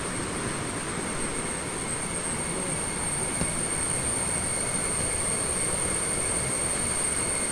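Steady forest ambience: an even rushing wash with a thin, unbroken high-pitched tone over it, getting slightly louder about halfway through.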